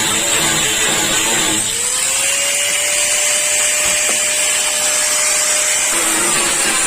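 Handheld power tool running steadily with a high hiss, its pitch rising as it speeds up about two seconds in and holding before dropping away about six seconds in.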